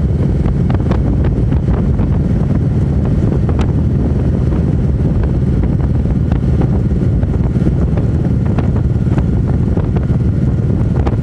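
Motorcycle riding at a steady speed: wind buffeting the microphone over the engine running underneath, with scattered brief pops from the buffeting.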